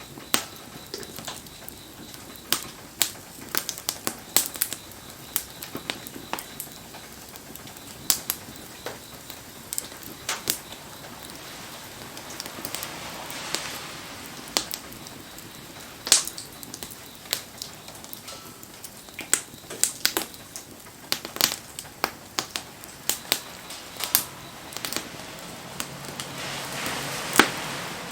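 Wood bonfire crackling, with irregular sharp pops over a steady soft hiss that swells twice.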